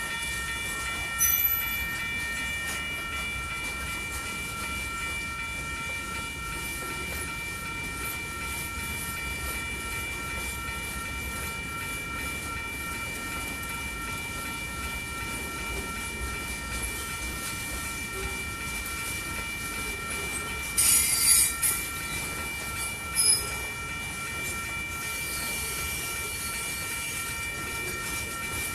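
A manifest freight train rolling by, with a steady high whine of several tones running throughout over a low rumble. Brief, sharp, high squeals cut in about a second in and twice more in the last third.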